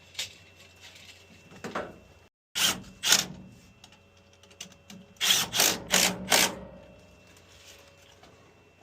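Scattered clicks and knocks of hand tools and boiler parts being handled and fitted together, with a run of four sharp knocks a little past the middle.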